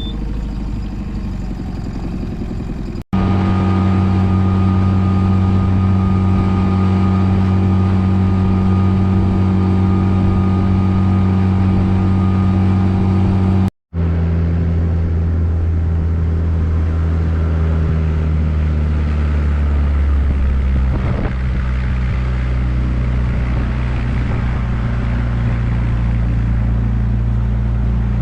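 Boat engine running steadily, in three stretches cut off abruptly from one another; it is quieter in the first few seconds, and its pitch shifts slightly about two thirds of the way through.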